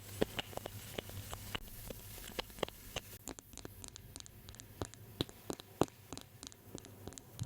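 Light, irregular tapping and clicking on an object close to the microphone, several small taps a second: an ASMR tapping trigger.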